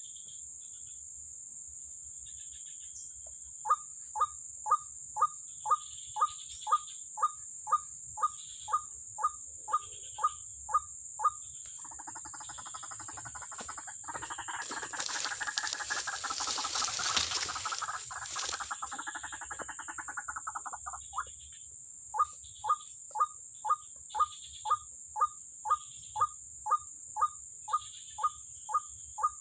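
White-breasted waterhen (ruak-ruak) calling: short falling notes repeated about twice a second, broken in the middle by a louder, harsher, noisy stretch before the steady repeated notes resume. A steady high insect hum runs underneath.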